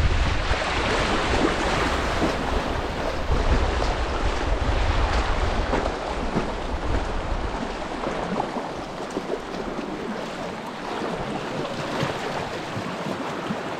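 Creek water rushing and splashing around a kayak on a moving stretch of river, a steady hiss throughout. Wind rumbles on the microphone for roughly the first half, then drops away.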